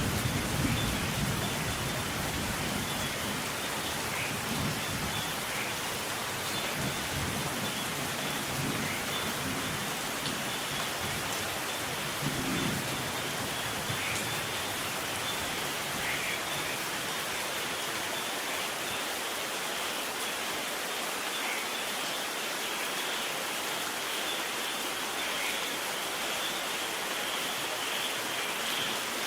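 Steady rain falling as an even hiss. The low rumble of thunder dies away over the first couple of seconds, and a short, weaker rumble comes about twelve seconds in.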